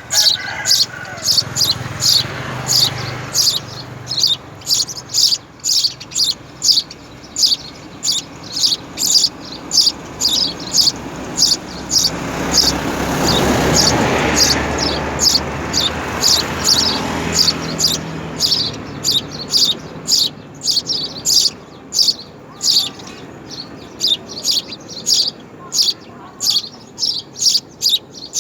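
House sparrow chirping over and over, short high chirps about twice a second. A broad rushing noise swells and fades in the middle.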